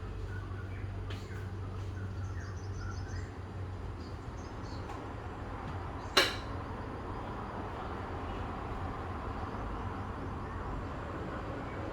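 Outdoor morning ambience: a steady low rumble with faint, scattered bird chirps in the first half, and one sharp click about six seconds in.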